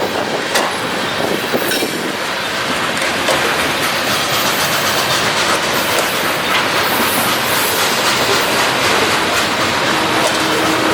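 Loaded train rolling past at close range: a steady noise of wheels on the rails, with a few sharp clicks in the first couple of seconds.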